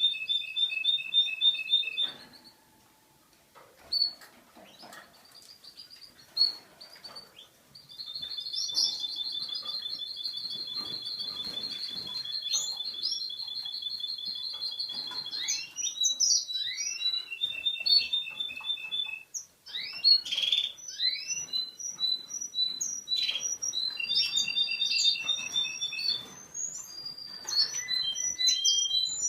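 A male Russian song canary, yellow and in breeding condition, singing. A brief rapid trill is followed by a few seconds of near pause with single chirps. Then comes a long, even, rapid trill of about seven seconds, and after it a run of rising whistled notes and shorter trills.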